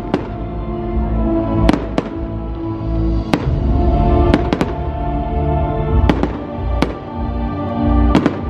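Aerial fireworks shells bursting: about ten sharp bangs at irregular intervals over music with sustained chords.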